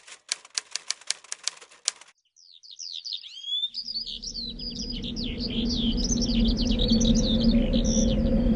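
About ten sharp clicks in quick, even succession, then after a short pause many small birds chirping busily over one another, with a steady low hum rising in beneath them from about the middle.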